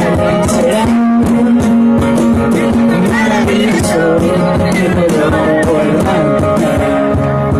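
Live band music: guitar with percussion keeping a steady beat.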